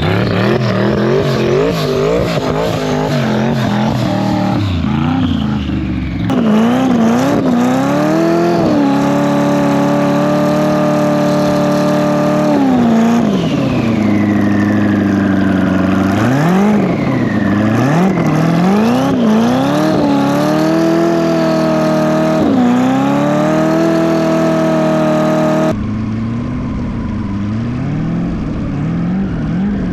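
Twin-turbo LS V8 engine revving up and down again and again, its pitch swooping and at times held steady at high revs, with two abrupt jumps in the sound.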